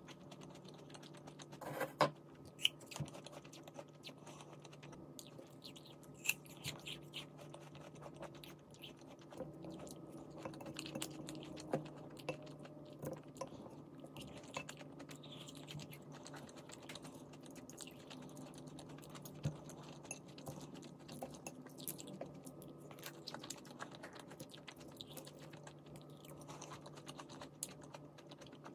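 Close-miked eating sounds: chewing and biting with irregular small crunches and clicks, over a steady low hum.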